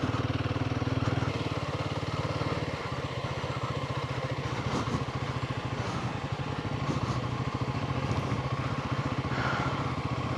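Motorcycle engine running steadily at low revs, its pitch dropping slightly about three seconds in.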